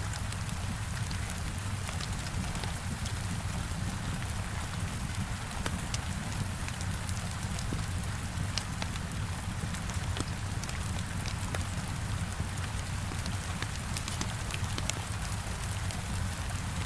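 Heavy rain beating steadily against a window, with a low rumble underneath and scattered sharp crackles of a wood fire throughout.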